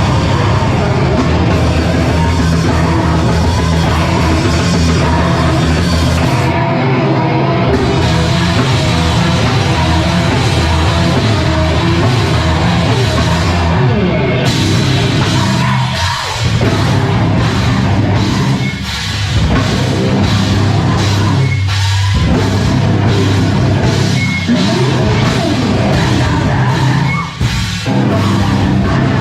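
A heavy rock band playing live, drum kit pounding under dense loud instruments, with a few brief breaks in the sound.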